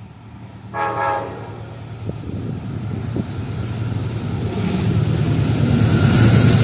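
A diesel train's horn sounds one short blast about a second in, then the train approaches: a low engine rumble and rail noise growing steadily louder.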